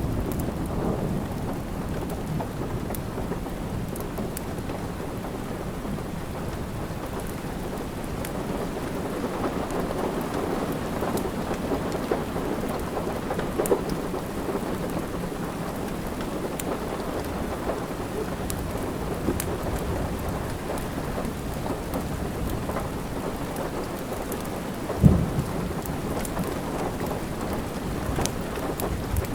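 Steady rain with a low rumble underneath, and sparse sharp crackles and pops from a wood fire in a fireplace. One louder low thud comes near the end.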